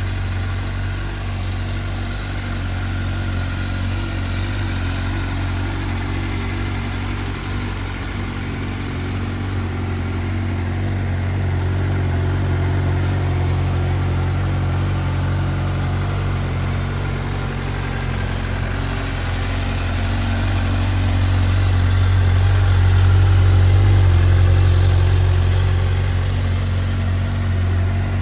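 A 2010 Suzuki GSX-R600's inline four-cylinder engine idling steadily, getting a little louder for a few seconds near the end.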